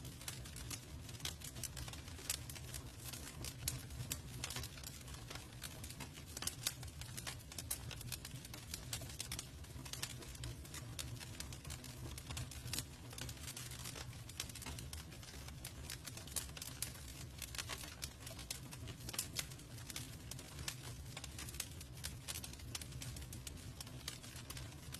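Campfire crackling, with irregular sharp pops and snaps of burning wood over a steady low rumble of the flames.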